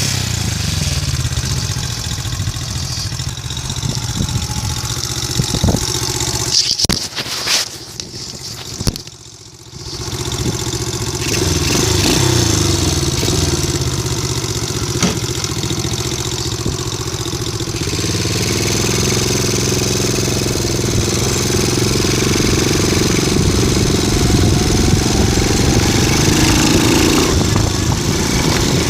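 Vehicle engine exhaust running at idle. About six to eight seconds in there are a few sharp pops as the engine dies down. It goes nearly quiet for a moment, then starts again around ten seconds in and settles back to a steady idle.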